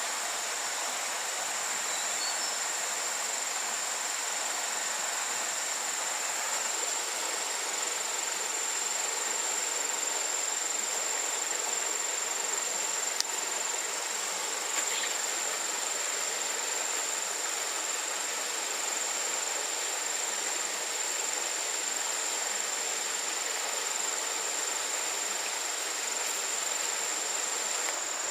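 Insects in the forest keeping up a steady, unbroken high-pitched drone over an even hiss.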